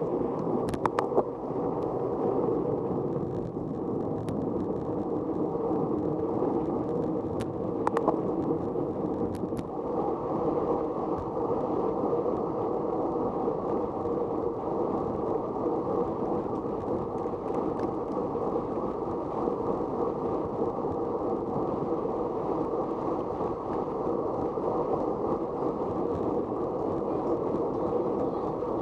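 Steady muffled rumble of wind and motion noise while travelling, with a few sharp clicks in the first ten seconds.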